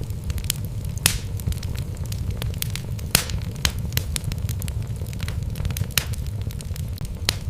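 Wood logs burning in a fireplace, crackling with frequent sharp pops over a steady low rumble. The strongest pops come about a second in and just after three seconds.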